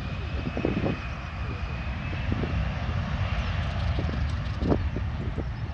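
Airliner's turbine engines running nearby: a high whine that rises slowly in pitch over a steady low rumble.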